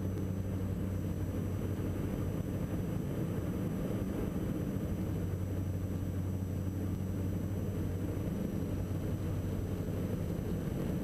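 Steady cockpit drone of a Diamond DA42 NG Twin Star's twin turbo-diesel engines and propellers in level cruise flight, an even low hum that does not change.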